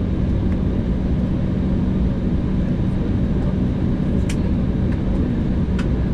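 Embraer 190 cabin noise with its GE CF34-10E turbofan engines running: a steady, loud rush with a steady low hum underneath, and a few faint clicks in the second half.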